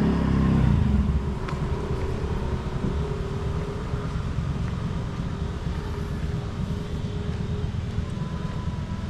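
A motor vehicle's engine passing close by and fading away in the first second, followed by a steady low rumble of outdoor background noise.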